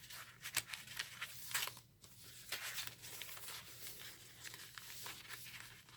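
Faint rustling and crinkling of paper and card as junk journal pages, tags and an envelope pocket are handled, with scattered small crackles.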